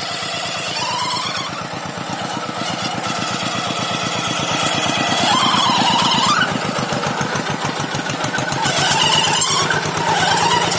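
Tractor engine running steadily, with rapid, even firing pulses, while wavering high squeals come and go over it.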